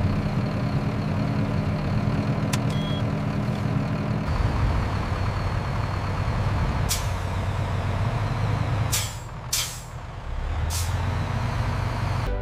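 Heavy machine running steadily, its low hum giving way to a rougher sound about four seconds in, with four short sharp hisses of released air over the second half.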